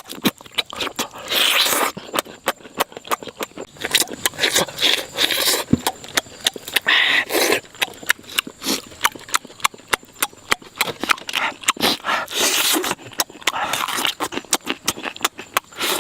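An irregular run of sharp clicks and scraping sounds, with louder scraping stretches now and then.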